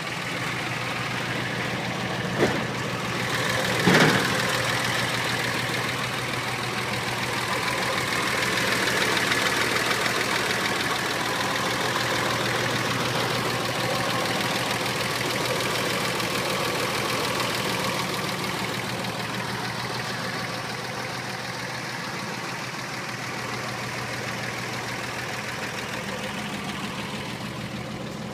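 1951 Chevrolet pickup's inline-six engine idling steadily, with two sharp knocks a few seconds in.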